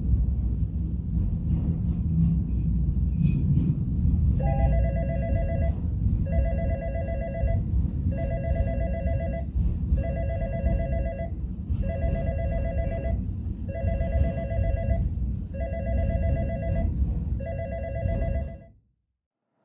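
Freight train of tank wagons rolling past with a steady low rumble. From about four seconds in, an electronic ring like a telephone bell sounds eight times, each ring a little over a second with short gaps. The sound cuts off suddenly near the end.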